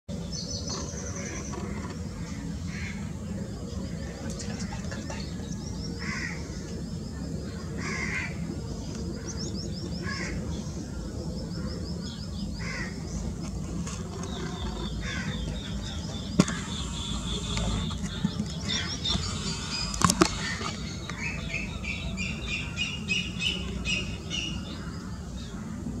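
A chorus of wild birds calling: rapid high trills and series of short chirps, over a steady low rumble. A few sharp clicks stand out in the second half.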